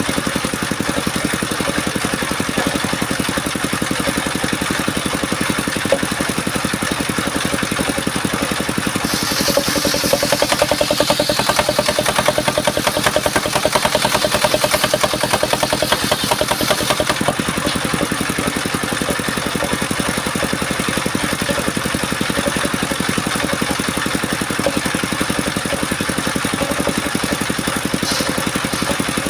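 Engine of a mobile circular sawmill running steadily, with a higher-pitched cutting sound from about nine to seventeen seconds in as the blade goes through mahogany.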